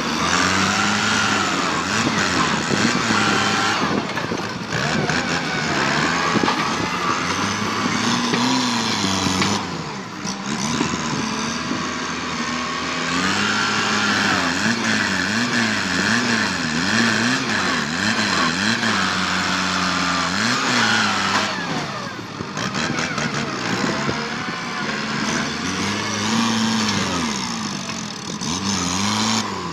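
Kubota tractor's diesel engine working under load while pushing through bush, its pitch rising and falling again and again as the revs vary. The engine eases off briefly about ten seconds and about twenty-two seconds in.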